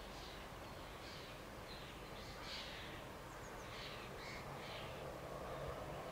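Birds calling in woodland: a string of short, falling calls, several a second at times, over a faint steady rush.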